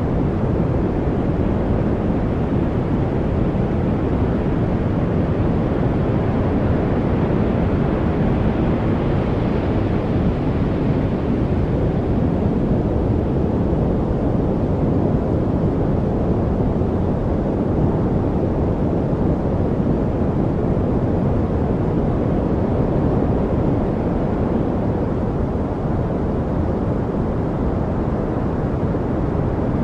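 Steady, deep rushing noise from a white-noise track, even and unbroken, heavier in the low end than the high. It turns slightly brighter for a few seconds around ten seconds in.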